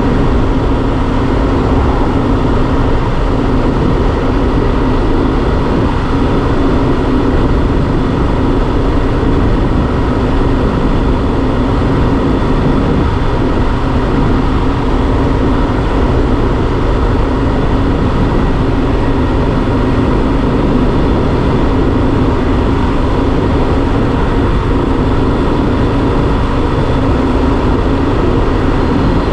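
Yamaha Super Ténéré XT1200's parallel-twin engine running at a steady cruise, under a steady rush of noise, with no change in revs.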